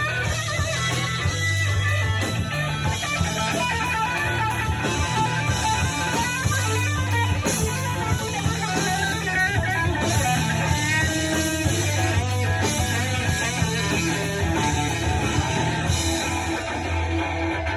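Band playing a rock song with guitar, bass and drums, with no singing.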